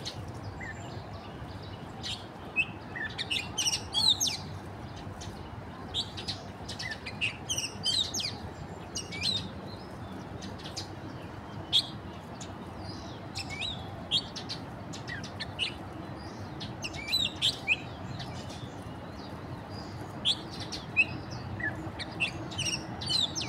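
Wild birds chirping and calling, many short sharp notes from several birds coming and going, over a steady low background noise.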